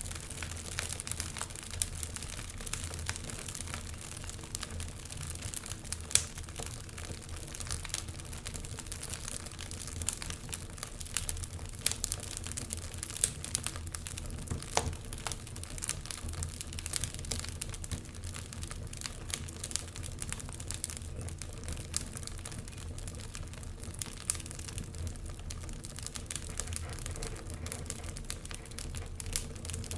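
Wood fire burning in a fireplace, crackling with many small irregular snaps and a few louder pops, over a low steady rumble.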